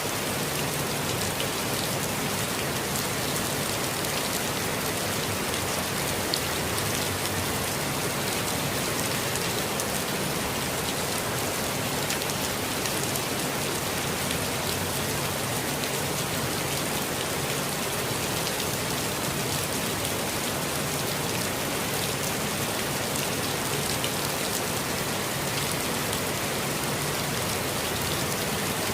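Steady rainfall with dense, fine drop patter on surfaces, even in level throughout.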